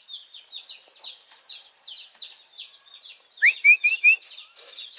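Small birds chirping: a quick, continual run of short, high, falling chirps, with a group of four louder short notes about three and a half seconds in.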